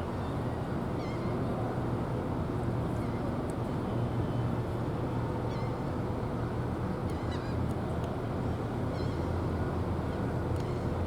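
Steady low rumble with a hum underneath, typical of a busy port, with short bird chirps scattered through it, several around the middle and near the end.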